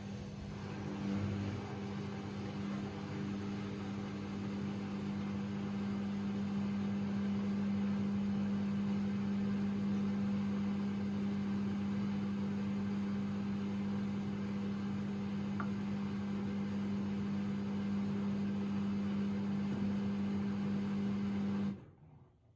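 AEG Lavamat 6610 washing machine running with a steady electrical hum. It starts with a click and cuts off abruptly near the end.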